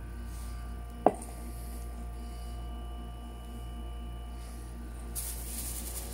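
Food handling at a steel bowl: one sharp knock about a second in, then a short rustle near the end as a gloved hand presses napa cabbage quarters into the bowl, over a steady low hum.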